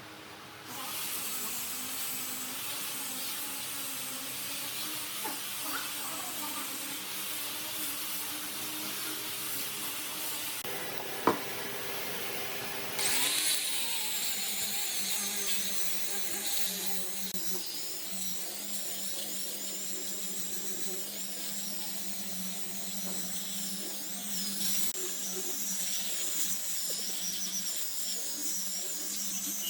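A high-pitched electric power tool running steadily as it works wood. There is one sharp click about eleven seconds in, and around thirteen seconds the sound changes to a wavering high whine over a steady low hum.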